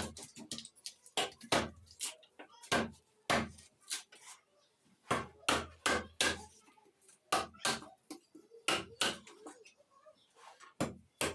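Hammer blows on wood, struck in irregular groups of two or three with short pauses between.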